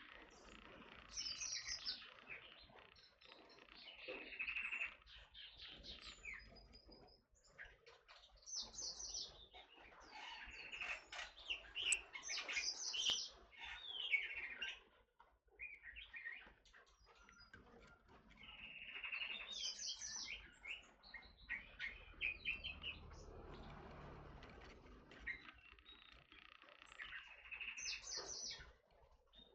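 Forest oriole (kepodang hutan) singing: bursts of rapid high chirps and short whistled glides, repeated every few seconds.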